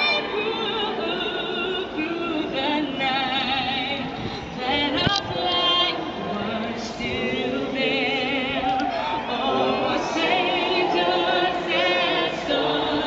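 Operatic-style singing, the held notes carrying a wide, even vibrato.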